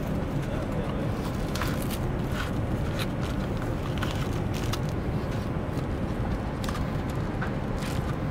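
Steady low hum of a Boeing 787-9 airliner cabin, with scattered short crinkles and clicks of a plastic-wrapped hygiene kit being opened and handled.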